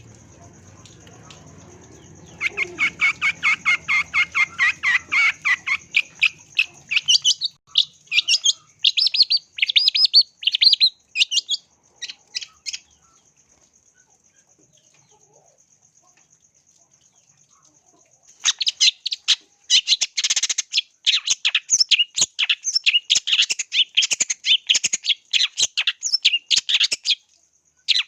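Long-tailed shrike (cendet) singing in fast runs of sharp, chattering notes. It falls silent for about five seconds midway, then starts again in a dense burst.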